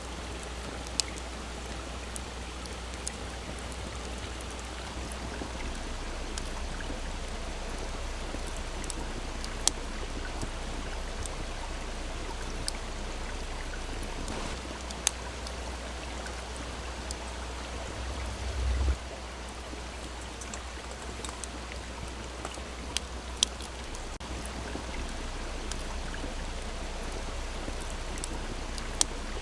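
Campfire crackling, with occasional sharp pops scattered over a steady, softly flowing stream. A brief low rumble rises and cuts off about two-thirds of the way through.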